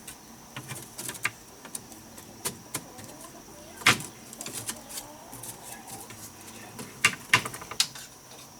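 Irregular sharp knocks and clicks, the loudest about four seconds in and three more close together near the end, over a steady high whine.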